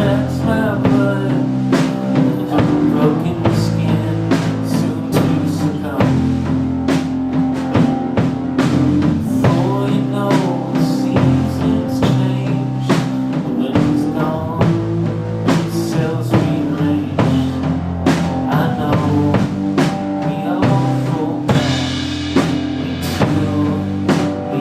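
Live rock band playing an instrumental passage: drum kit keeping a steady beat under bass and electric guitar.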